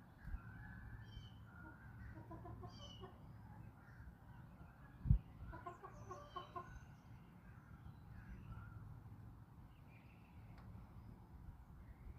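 Backyard hens clucking in two short runs of repeated calls, with small birds chirping in the background. A single low thump about five seconds in is the loudest sound.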